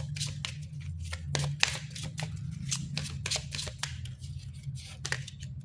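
Oracle cards being shuffled by hand: a quick, uneven run of crisp card slaps and flicks, several a second, stopping near the end.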